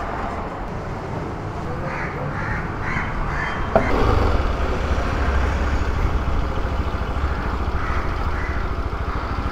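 Bajaj Pulsar RS200's single-cylinder engine: a sharp click about four seconds in, then the engine running low and steady as the bike moves off slowly. Crows caw repeatedly in the background.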